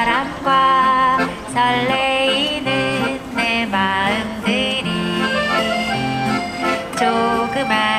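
Accordion playing a lively melody over sustained bass chords, the instrumental introduction of a yodel song.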